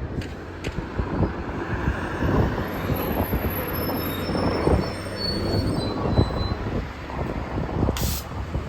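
NefAZ-5299 city bus running close by, its engine making a low, uneven rumble, with thin high-pitched squeals a few seconds in and a short hiss near the end.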